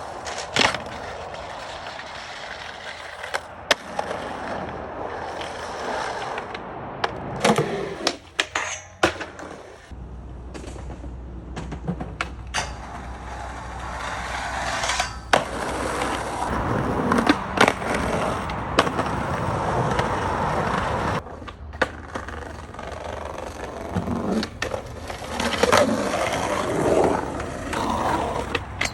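Skateboard wheels rolling on hard ground, broken by sharp wooden clacks of the board popping and landing many times, across several short clips.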